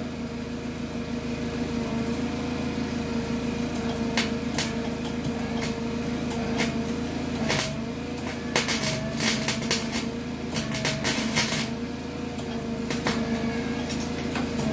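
Small 120-volt wire-feed welder humming steadily, with short irregular bursts of arc crackle as the trigger is pulled in quick tacks on rusty sheet-metal floor.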